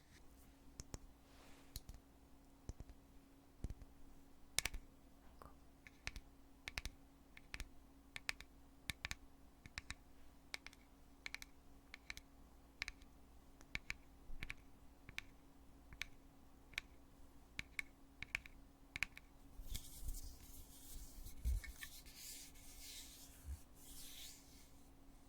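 The lid of a foundation compact being opened and snapped shut over and over, making sharp clicks about one or two a second. From about 20 seconds in, this gives way to a scratchy rubbing of the container being handled.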